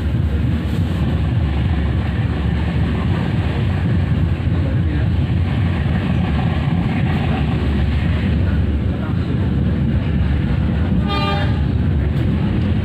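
Steady rumble of a moving passenger train heard from inside the coach, its wheels running on the track. A brief horn toot sounds about eleven seconds in.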